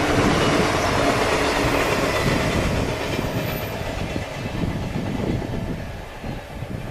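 Train passing by, loud at first and dying away after about three seconds, with heavy wind buffeting a compact camera's built-in microphone throughout.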